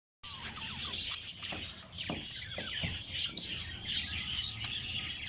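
Several budgerigars chattering and chirping at once, a busy, continuous warble with a few sharp clicks among the calls.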